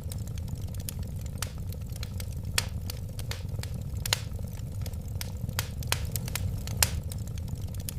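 Wood fire burning steadily: a low rumble of flames with irregular sharp crackles and pops of burning wood, several a second, a few louder pops standing out.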